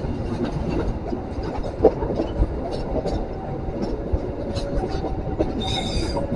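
Passenger train coach rolling slowly over the track as it brakes toward a station, heard from inside the carriage: a steady rumble with irregular wheel knocks and clacks, faint squealing tones coming and going, and a brief high-pitched squeal near the end.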